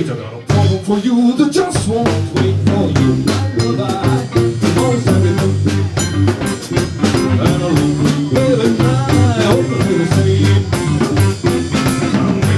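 Live blues-rock band playing: electric guitar, bass and drum kit, with a steady drum beat.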